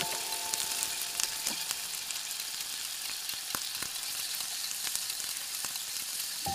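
Potato chunks frying in a small pot, a steady sizzle with scattered sharp crackles. In the second half a spoon stirs them, clicking against the pot.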